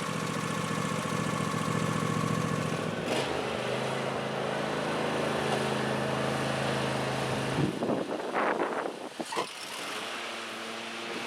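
John Deere D140 lawn tractor engine running steadily. About three seconds in there is a click and the engine's pitch shifts. Near eight seconds the engine sound drops out suddenly, leaving a few clicks and knocks and then a quieter, lower hum.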